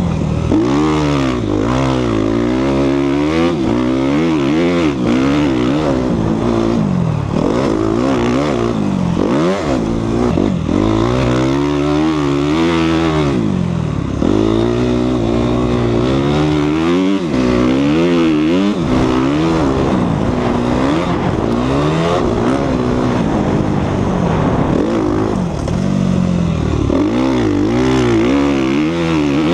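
2014 Suzuki RM-Z250's four-stroke single-cylinder engine being ridden hard, the revs climbing and dropping every second or two as the throttle is worked through turns and jumps.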